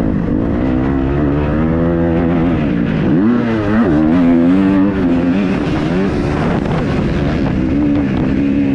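Kawasaki KX250F four-stroke single-cylinder motocross engine being ridden hard, its revs rising and falling with the throttle. About three seconds in the pitch drops sharply and climbs straight back up.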